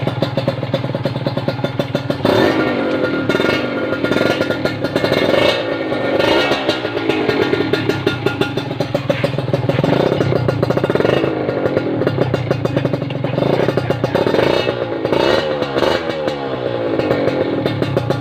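Two-stroke Kawasaki Ninja RR engine running through an AI Tech racing exhaust freshly repacked with glasswool. The throttle is blipped again and again, so the revs rise and fall, as the exhaust is tested after the repacking.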